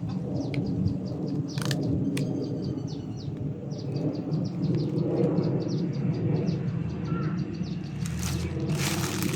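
Wind gusting across the microphone in a low, uneven rumble, with insects chirping steadily in short high pulses, several a second. A rush of rustling noise comes in about a second and a half in and again near the end.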